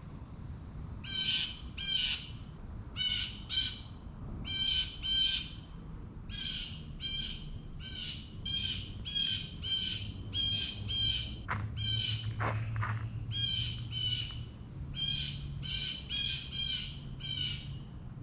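A bird calling loudly and incessantly: harsh, squawking calls repeated about twice a second, often in quick pairs, without a break.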